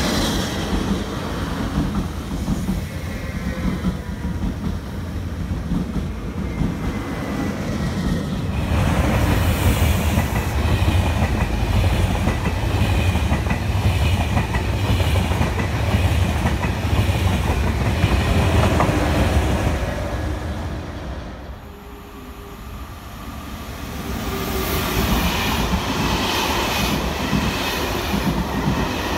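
Passenger trains passing close by, with steady wheel-on-rail rumble and clatter over the rail joints. First a Régio2N double-deck electric unit, then a TGV Duplex high-speed set, and after a short lull about two-thirds of the way in, a rake of Corail coaches.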